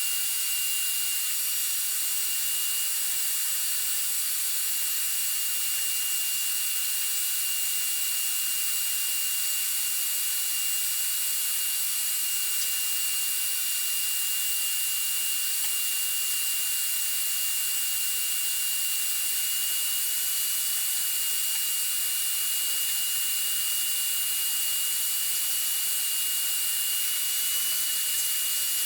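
A small power tool's motor running steadily, a high whine over a constant hiss, with slight wavers in pitch. It is cleaning hard soot off the steel walls of a pellet stove's firebox.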